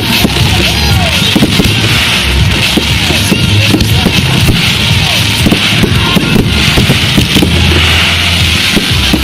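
Fireworks going off in a rapid run of pops and crackles, over music playing through loudspeakers.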